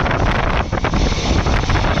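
Strong wind buffeting the microphone over the low rumble of a moving passenger train, with a few quick knocks.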